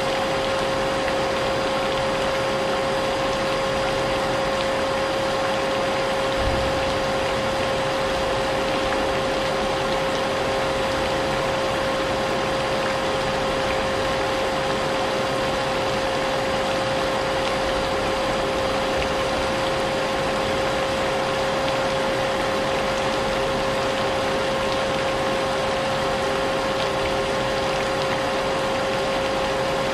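Vacuum cleaner running steadily with a constant hum, mixed with the even hiss of falling rain.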